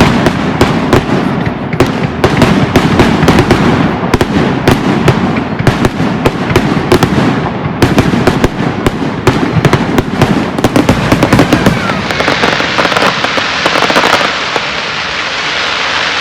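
Fireworks display: a dense barrage of rapid bangs and cracks, many a second, that after about twelve seconds gives way to a steadier hissing crackle with only a few bangs.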